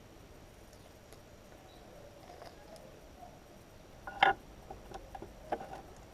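A few scattered clinks and knocks of tools or metal parts being handled. The loudest is about four seconds in, with another about a second later and a few faint ticks around them.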